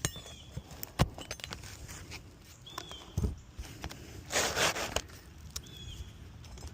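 Sharp knocks and a brief scraping tear as a damaged 3-tab asphalt shingle is worked loose from the roof, its nails pulling through the shingle.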